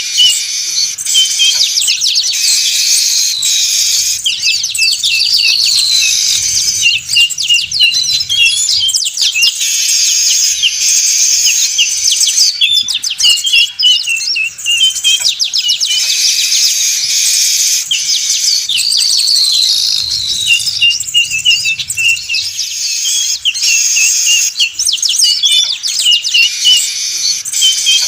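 Weaver birds (manyar) chattering and singing densely, many high chirps, trills and rising whistles overlapping without a break. It is a looped bird-trapping lure recording, with the same passage recurring about every 16 seconds.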